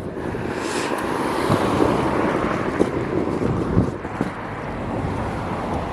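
Steady vehicle running noise, with wind buffeting the microphone.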